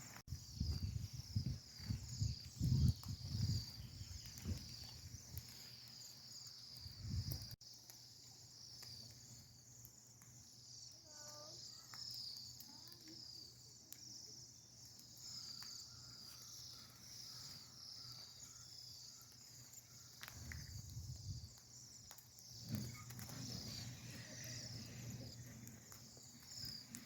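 A flock of small birds chirping together, a continuous high chatter of many overlapping short calls. Low rumbles of handling or wind noise come through in the first several seconds and again near the end.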